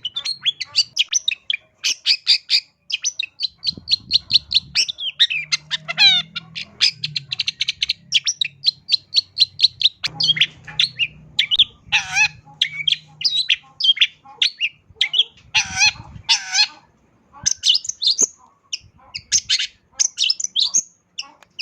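Long-tailed shrike (cendet) singing in full voice: a fast, varied song of rapidly repeated short notes, chattering runs and sliding whistles, filled with phrases mimicked from other birds.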